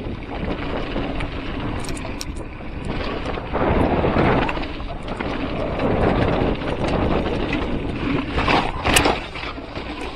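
Wind rushing over the microphone mixed with tyre and trail noise from a mountain bike riding downhill, with scattered sharp rattles and knocks; a louder knock comes near the end.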